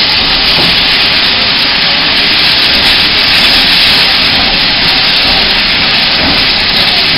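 Steam train giving a loud, steady hissing rush with no breaks, a faint steady hum beneath.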